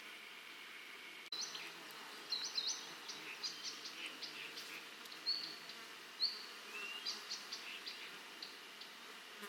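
A steady high insect buzz that cuts off suddenly about a second in, followed by a bird singing a run of short, high chirps and whistles.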